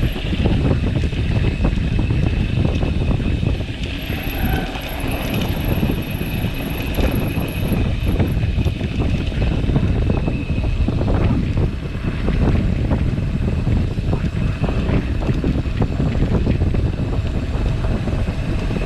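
Strong wind buffeting a mountain biker's camera microphone, mixed with the continuous rattle and knocks of a mountain bike rolling over rough trail.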